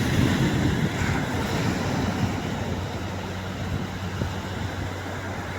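Surf washing on a beach with wind buffeting the microphone, a dense low rumble that slowly eases. A faint steady low hum joins about halfway through.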